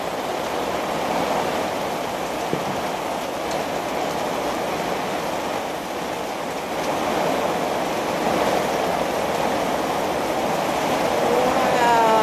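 Heavy rain pouring steadily in a thunderstorm, getting a little heavier after about seven seconds. A voice is heard briefly near the end.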